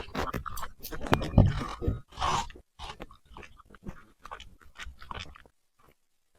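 Puppy chewing food with quick, irregular crunching clicks. The clicks are loudest in the first two seconds, thin out, and stop about five and a half seconds in.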